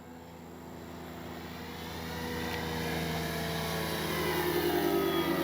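Electric RC model airplane's brushless outrunner motor and 13-inch propeller humming in flight, growing louder as it comes closer, its pitch dropping slightly near the end.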